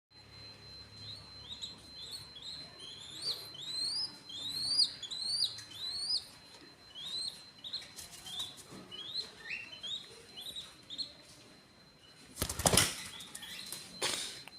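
Young green pigeon (punai) chick giving a long series of thin, rising peeping calls, about two a second, typical of a begging chick. Near the end comes a short, louder flurry of wing flapping.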